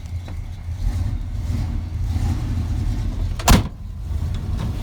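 Square-body pickup's 350 small-block V8 idling cold and running rich. A single loud bang sounds about three and a half seconds in.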